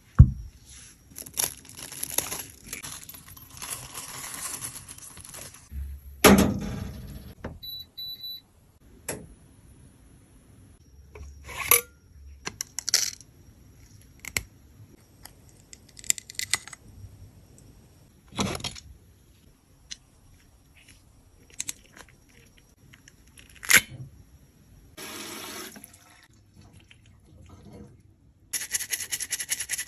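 Makeup palettes and tools being handled and worked: sharp clicks and knocks of hard cases and tools, with stretches of scraping between them. The loudest knock comes right at the start and another about six seconds in. Near the end a fast, steady scratching begins.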